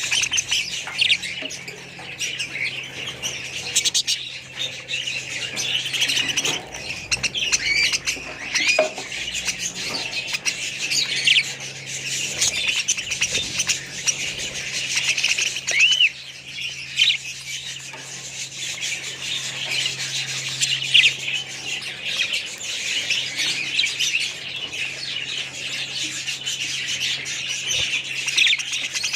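A flock of budgerigars chattering, with many overlapping high chirps and squawks that run on without a break.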